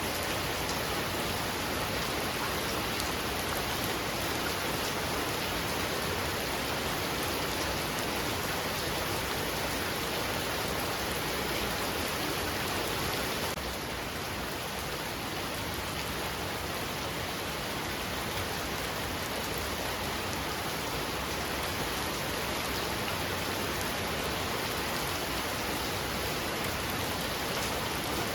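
Heavy rain falling steadily, a dense even hiss, dropping slightly in loudness about halfway through.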